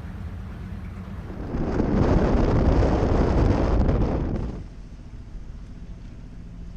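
A sailing yacht under way with a steady low drone, and a loud rushing noise that swells for about three seconds in the middle, like wind or spray sweeping over the boat, then falls away.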